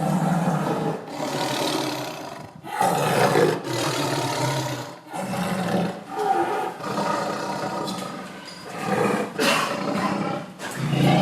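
Tiger roaring, a series of deep roars one after another, each lasting a second or two with short breaks between them.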